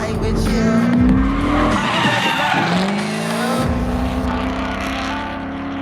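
Drift car engine revving hard with tyres screeching as the car slides. The revs climb, drop about two seconds in, then climb again, over background music with a heavy bass line.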